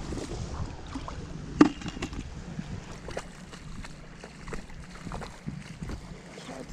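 Stones knocking and scraping while a rock crevice on the shore is searched: scattered clicks and knocks, with one loud knock about a second and a half in.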